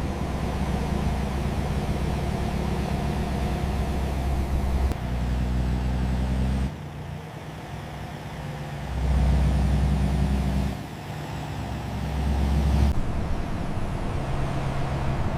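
Low, steady vehicle engine rumble in several segments that change abruptly, with a quieter stretch a little after the middle.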